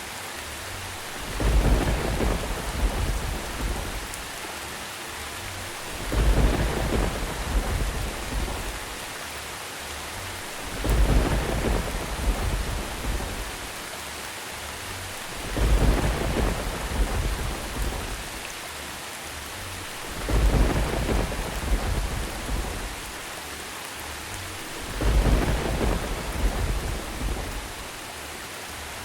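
Steady rain with a low thunder rumble swelling and fading about every five seconds, six times. The rumbles are evenly spaced and alike, like a short looped thunderstorm recording.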